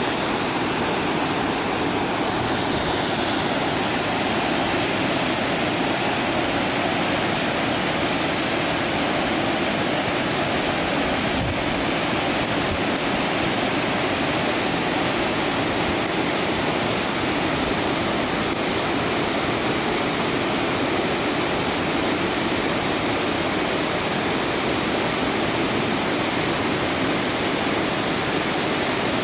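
Steady rushing of water pouring over a dam, an even roar at a constant level that comes in abruptly at the start.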